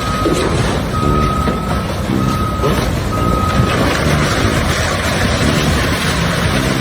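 Reversing alarm of a heavy construction vehicle beeping at an even pace over its running engine. The beeps stop about halfway through while the engine keeps going.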